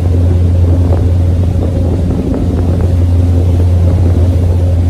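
Engine of a sightseeing tour boat running at a steady cruising speed: a loud, even, low drone.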